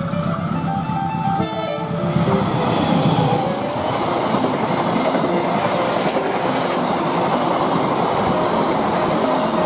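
Diesel-hauled passenger train passing close by at speed: the locomotive goes by loudest about two to three seconds in, then the carriages roll past with steady noise of wheels on rail.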